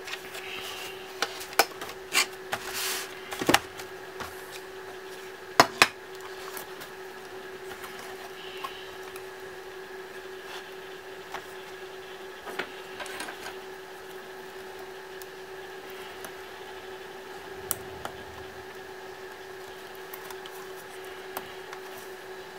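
Clicks, knocks and a short scrape of small hard laptop parts being handled during disassembly, busiest in the first six seconds and then only occasional light clicks, over a steady low hum.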